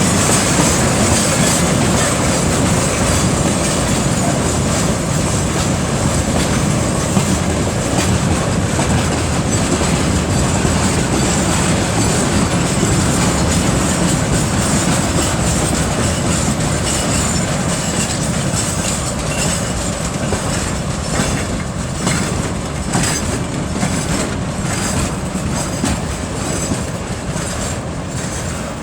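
2TE10UT diesel locomotive's 10D100 two-stroke opposed-piston diesel working hard under load, hauling a freight train uphill, with its turbocharger whistling. Wheels click over rail joints, more often in the latter part as the sound eases slightly.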